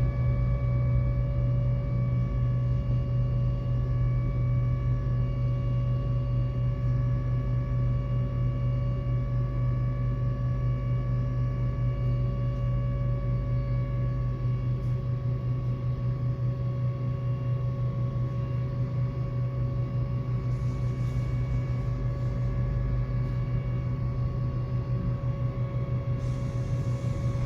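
Tram running, heard from on board: a steady low hum with several constant tones above it that hold their pitch.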